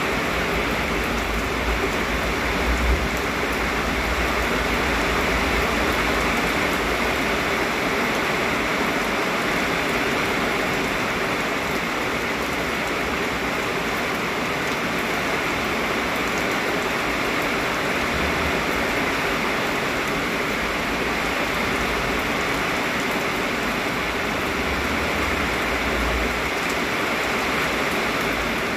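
Heavy rain pouring down in a steady, dense hiss, with a few spells of low wind rumble on the microphone.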